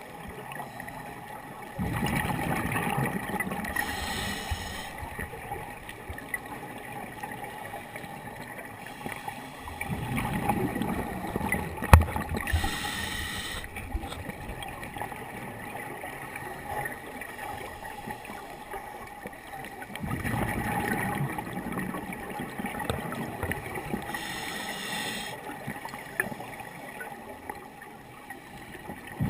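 Scuba diver breathing through a regulator underwater: three breaths about ten seconds apart, each a bubbling, rumbling exhalation with a short hiss, over a faint steady hum. A single sharp click about twelve seconds in.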